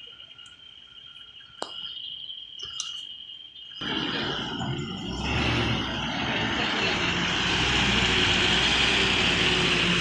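A truck's engine comes in about four seconds in and builds to a steady loud run with a deep rumble, as the truck works under load to get free of the mud. Before that there is only a faint, steady high tone.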